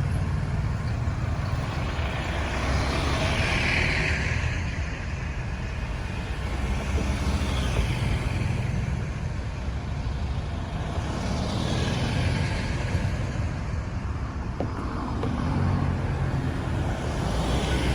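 Road traffic: a steady low engine rumble with vehicles passing one after another, their tyre and engine noise swelling and fading every few seconds.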